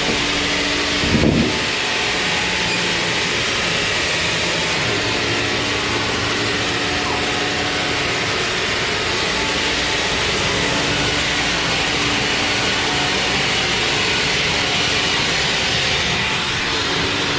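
Sawmill machinery running steadily, a loud dense mechanical noise with a hum that comes and goes, and a brief louder low thump about a second in.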